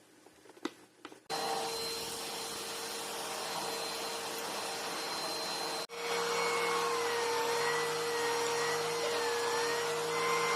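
A few clicks, then a Bissell PowerLifter backpack vacuum's motor switches on about a second in and runs with a steady whine. Just past halfway it cuts out for an instant and comes back with a wavering pitch.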